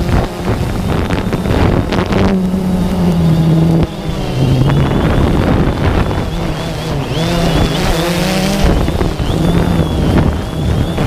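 DJI Phantom 2 quadcopter's electric motors and propellers whirring loudly, the pitch stepping up and down several times as the throttle changes, with wind buffeting the microphone.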